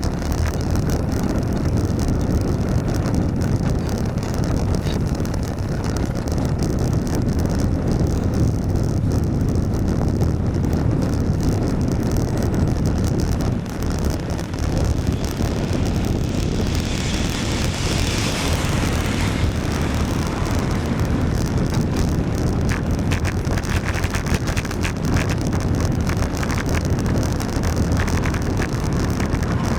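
Wind rumbling on the microphone of a ride-along camera on a bicycle in the rain, over road traffic noise. A hiss swells and fades about 17 to 19 seconds in.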